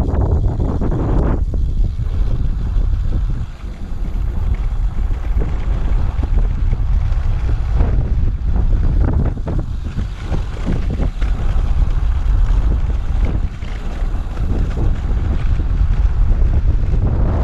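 Wind buffeting the microphone on a moving road bike: a loud, steady low rumble that gusts up and down, easing briefly about three and a half seconds in.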